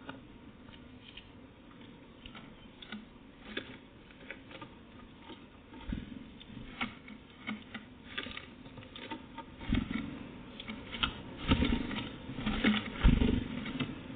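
Irregular light tapping and scrabbling from a small animal moving about close to the microphone, with a few low thumps that grow more frequent and louder in the second half.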